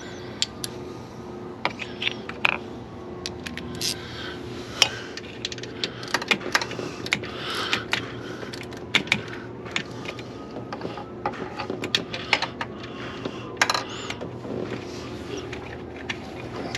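Hand tools working bolts on the water pump: sharp, irregular metallic clicks and clinks of a socket ratchet on an extension and tools against metal, over a steady low hum.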